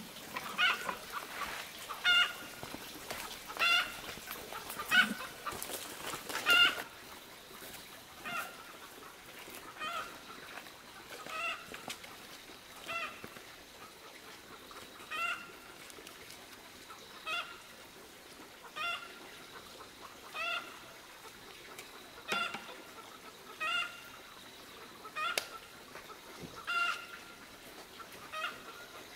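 A bird repeating a short single-note call over and over, about once every second and a half. Scattered knocks and rustling sound over the first several seconds.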